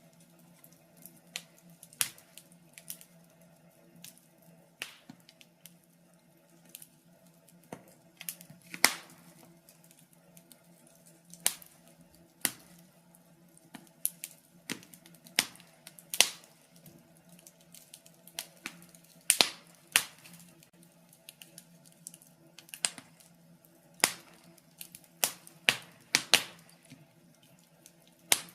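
Wood fire crackling, with irregular sharp pops and snaps, a few much louder than the rest, over a faint steady low hum.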